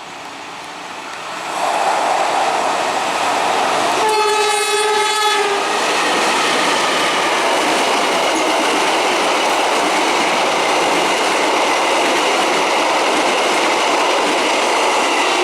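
A train passing close by with loud, steady rolling noise that swells in about a second and a half in. The locomotive horn sounds once for about a second and a half some four seconds in, and starts again right at the end.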